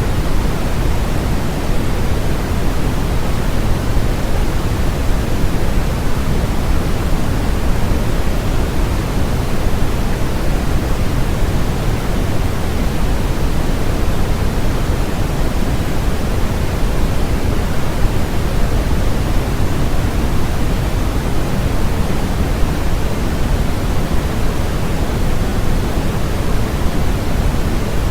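Steady generated noise of the kind sold as white noise for sleep, an even rushing hiss with most of its weight in the low end and no change at all.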